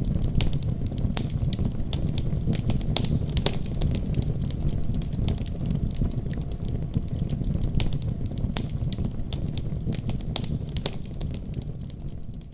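Wood fire burning in a fireplace: a steady low rush of flames with frequent irregular sharp crackles and pops. It begins to fade down at the very end.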